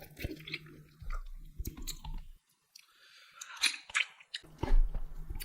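Close-miked eating: chewing with sharp crunches and wet bites. The sound cuts out briefly about halfway through, and then the chewing and crunching go on.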